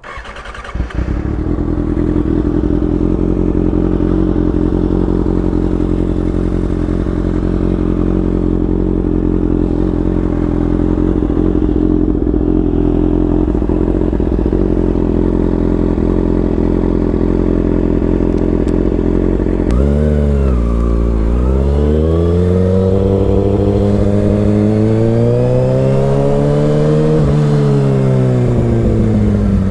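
2022 Kawasaki ZX-6R's 636 cc inline-four, breathing through an M4 GP aftermarket exhaust, starts about a second in and idles steadily. From about 20 s it is revved up and down several times, the last rev climbing for several seconds before falling back.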